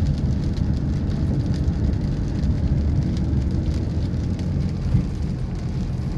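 Steady low rumble of a vehicle travelling through rain, with faint raindrop ticks over it.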